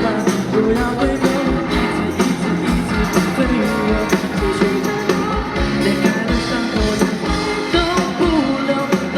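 Live pop-rock band music with a steady drum beat, guitar and singing.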